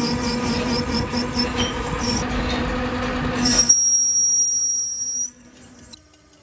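Factory machinery running with a steady hum and noise, cutting off abruptly a little over halfway through; a thin high-pitched squeal follows briefly before a much quieter stretch.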